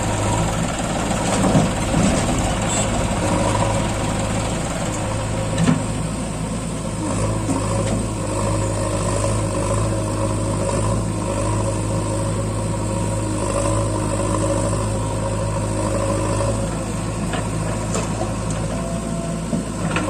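Farm tractor's diesel engine running steadily, with a couple of brief knocks a second or two in and again about six seconds in.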